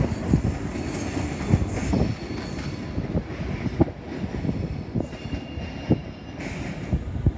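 Passenger train rolling slowly through the station, a low rumble with its wheels knocking over the rail joints at irregular intervals, and a faint wheel squeal about five seconds in.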